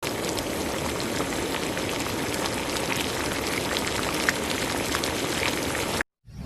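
Food cooking in a pan on the stove: a steady bubbling hiss with small scattered pops, cutting off abruptly about six seconds in.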